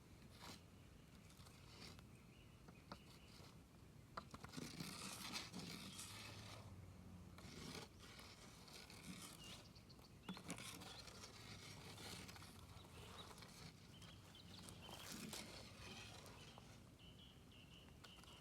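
Smoky, smouldering campfire crackling faintly, with scattered sharp pops and denser spells of crackle every few seconds.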